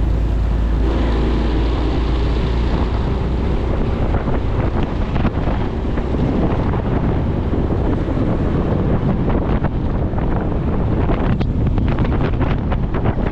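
Riding a motorcycle: wind rushing and buffeting over the microphone on top of the engine and road noise, with the gusts growing choppier in the second half.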